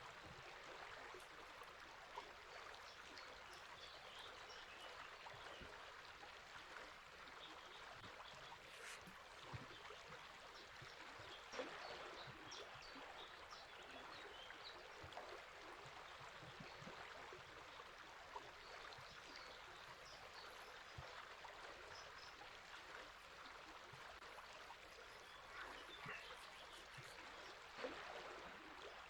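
River water running steadily, with scattered faint bird chirps above it.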